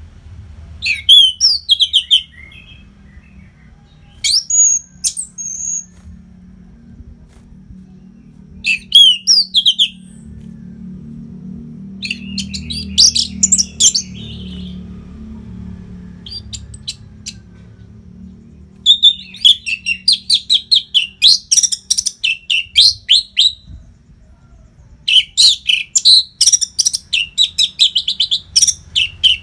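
Orange-headed thrush singing: loud phrases of rapid, high, chattering notes in bursts of one to several seconds, separated by short pauses, with a faint low hum underneath.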